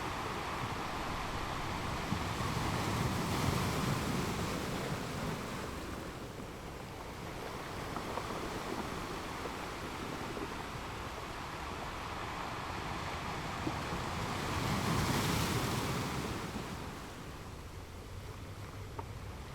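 Wind rushing over the microphone, gusting twice.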